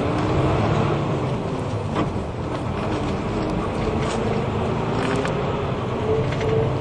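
Route bus heard from inside the cabin: the engine running under way, its tone shifting in pitch a few times, with occasional clicks and rattles from the bodywork.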